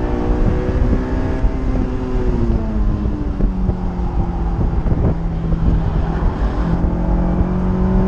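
Honda S2000's four-cylinder engine heard from inside the open-top cabin on track, running steadily under heavy wind and road rush. Its pitch falls about three seconds in, holds lower, then steps back up near the end.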